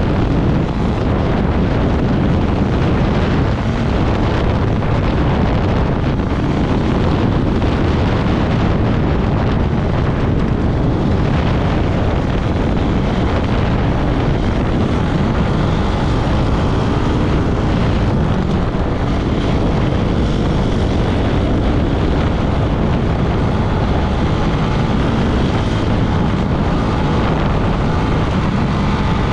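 Off-road vehicle engine running steadily under way over desert ground, with heavy wind buffeting on the microphone.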